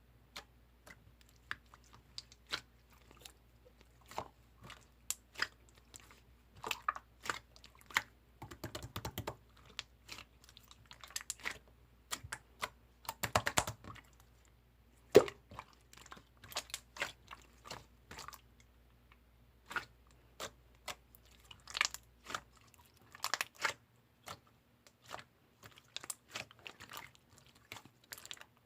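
Irregular close-up clicks, crackles and crunchy snaps, scattered unevenly with denser runs of crackling and one sharp, louder snap about halfway through.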